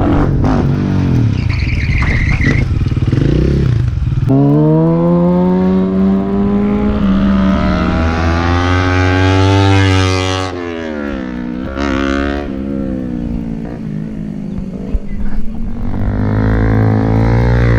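Superbike engines on a racetrack: one engine note climbs steadily in pitch for about six seconds as the bike accelerates, then drops off, and another engine builds near the end.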